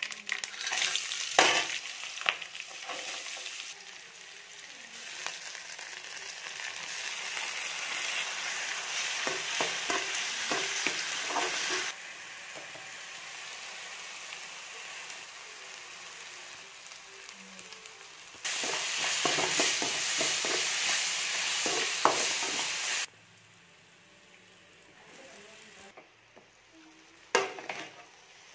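Oil sizzling in a metal kadai as whole spices, green chillies and a chopped mint mixture fry, stirred with a perforated metal ladle. The sizzle comes in stretches that start and stop abruptly, quieter near the end, with a few sharp knocks of the ladle against the pan.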